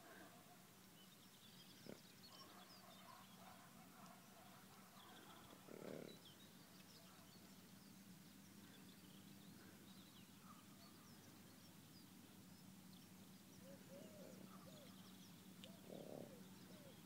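Near silence with small birds chirping faintly and on and off, over a faint steady low hum. Two brief muffled bursts of noise come about six seconds in and again near the end.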